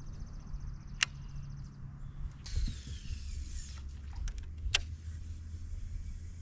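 Fishing tackle handled while a Texas rig is tied on: a fast light ticking for nearly two seconds, two sharp clicks, and a rustle about a second long, over a low steady hum.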